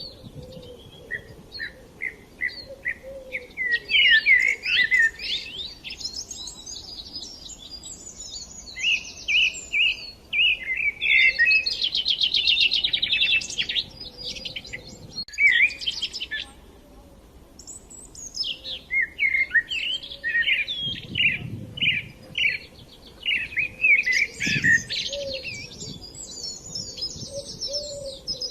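Several small songbirds chirping and trilling in overlapping bursts of quick, high notes, with short quieter gaps between the bursts.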